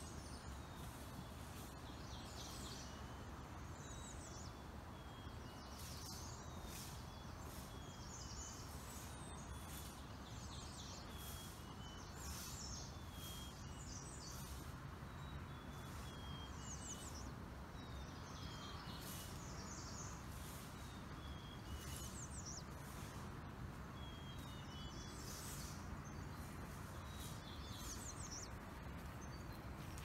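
Songbirds singing and chirping, song phrases repeating every couple of seconds, faint over a steady low background hum.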